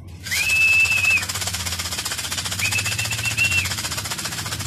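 A fast, continuous rattle, as of feed shaken in a tin, with a person whistling two long level notes over it, the second slightly wavering: the fancier's call to bring homing pigeons down into the loft trap.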